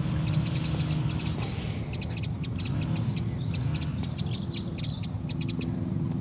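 Small birds chirping in quick runs of short, high notes, over a steady low hum of distant machinery.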